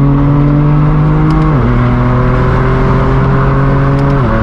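Straight-piped BMW M4 F82's twin-turbo inline-six pulling hard under acceleration, its exhaust note climbing slowly in each gear, with two quick dual-clutch upshifts that drop the pitch, about a second and a half in and again near the end.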